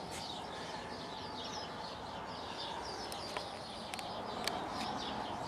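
Faint birds chirping repeatedly in the background over a steady hiss, with a few light clicks and taps about three to five seconds in.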